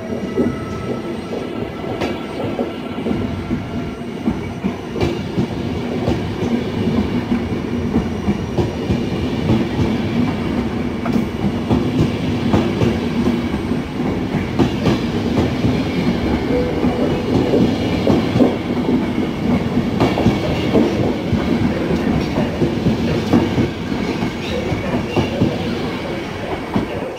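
Train of passenger coaches rolling past close by as it pulls away, wheels clattering and knocking over rail joints and points. The noise drops off at the end as the last coach passes.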